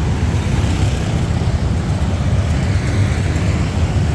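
Steady traffic noise from cars and motorbikes on a busy city street, a continuous rumble heaviest in the low end.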